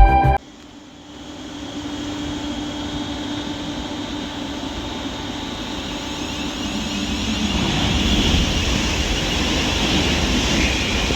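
Electric multiple-unit train on the line through the station, its running noise building steadily for several seconds, with a faint high whine above it.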